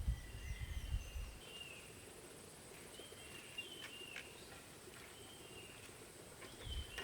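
Birds giving short, curved chirps, a few every second, faint and outdoors, with a low rumble during the first second or so.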